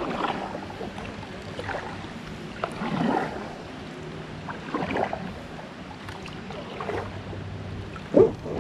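Kayak paddle strokes dipping and splashing in calm river water, one about every one and a half to two seconds, with one sharper, louder hit near the end.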